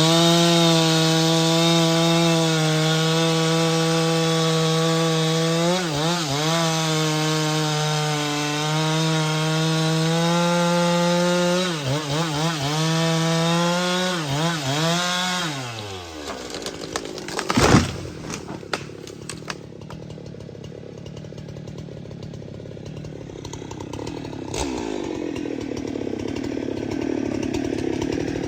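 Chainsaw running at high revs while cutting wood, its engine note dipping and recovering twice. About sixteen seconds in it drops to a quieter, lower running, followed shortly by one sharp, loud crack.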